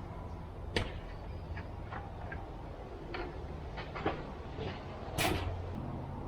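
Light clicks and knocks of a chainsaw being handled, with one short scraping rustle about five seconds in, over a low steady hum.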